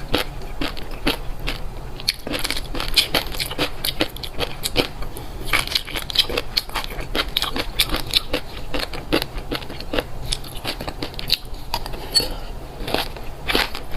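Close-miked chewing of crunchy food: a quick, uneven string of crisp crunches and crackles, several a second.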